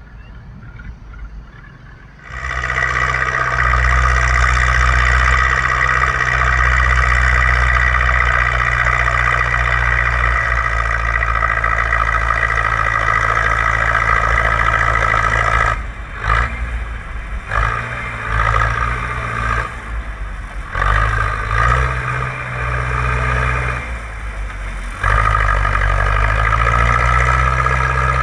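Zetor 6245's four-cylinder diesel engine pulling a plow under load. The sound jumps up to a loud, steady drone about two seconds in. In the second half it dips and surges several times, then goes steady again near the end.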